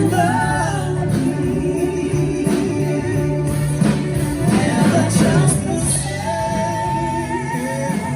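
Live stage-musical song: a solo voice singing over a band accompaniment, holding a long note with vibrato about six seconds in.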